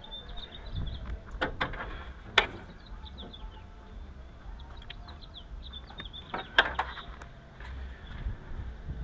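Small birds chirping in quick high notes, with a low hum beneath. Several sharp clicks cut in: a pair about a second and a half in, a louder one a second later, and another cluster a little past the middle.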